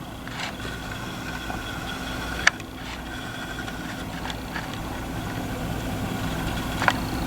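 Steady low mechanical hum with a faint steady high whine, broken by two sharp clicks, one about two and a half seconds in and one near the end.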